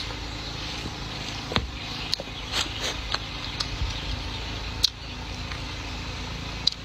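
Close-miked chewing of spicy sausage: scattered mouth clicks and smacks, about half a dozen short sharp ones, over a steady low background hum.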